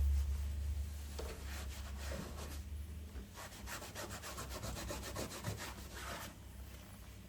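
Quick, rhythmic abrasive rubbing strokes of hand sanding or scraping, about eight strokes a second, running for about three seconds in the second half. A low rumble underlies the first half.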